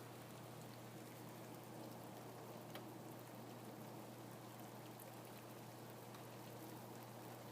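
Faint, steady rain patter with scattered individual drops ticking through it, over a steady low hum.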